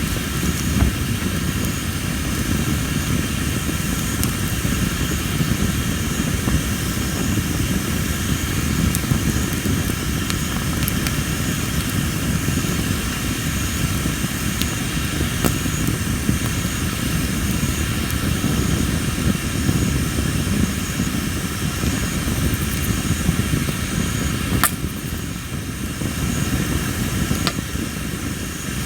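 Tree-of-heaven (Ailanthus) logs burning in a fire pit: a steady low rumble of flame with scattered crackles and sharp pops, the loudest pop about 25 seconds in. The uploader puts the loud popping down to the wood holding a lot of moisture. Insects chirp steadily behind the fire.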